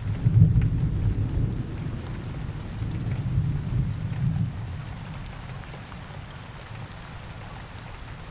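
Steady rain with a low rumble of thunder that breaks in suddenly, swells again about three seconds in, then fades away.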